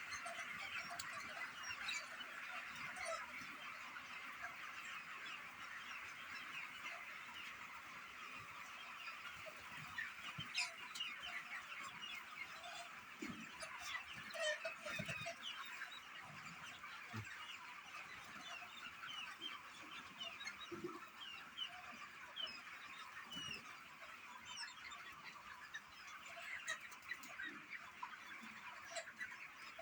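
A large flock of birds chattering and calling over one another in a dense, continuous chorus of short chirps, with occasional lower calls.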